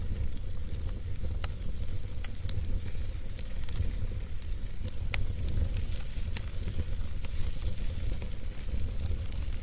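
Wood fire burning in a fireplace: a steady low rumble and hiss from the flames with scattered sharp crackles and pops of the burning logs, one louder pop about five seconds in.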